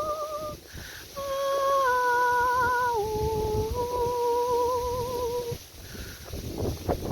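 A woman's voice humming long, high held notes with a steady wavering vibrato. The pitch steps down from note to note, with a brief break for breath about half a second in, and the humming stops over the last second and a half.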